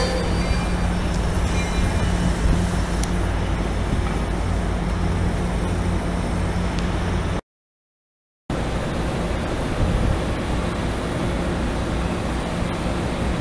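Amtrak Pacific Surfliner passenger train rolling past, a steady low rumble with a low engine drone in it. The sound cuts out completely for about a second midway, then comes back as a steady rushing noise.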